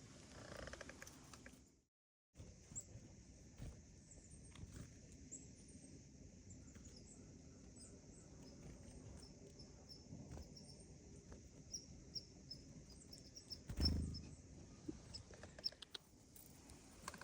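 Faint outdoor background: a steady high hiss with scattered small clicks and faint high chirps, broken by a short low thump about 14 seconds in.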